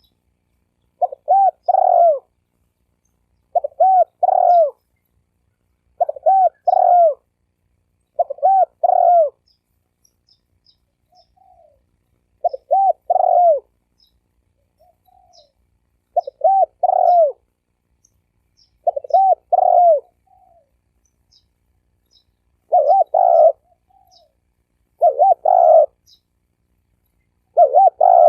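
Spotted dove cooing: about ten short phrases of quick coo notes, each phrase about a second long, repeated every two to three seconds with one longer pause about ten seconds in. It is a decoy dove's territorial call, used to lure wild doves.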